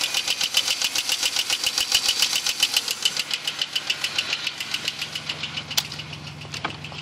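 2001 Pontiac Grand Prix GT's 3.8-litre V6 running with a fast, even ticking, about eight or nine ticks a second, that fades in the second half. The owner takes it for lifter tick but is unsure of the cause. A couple of sharp clicks come near the end.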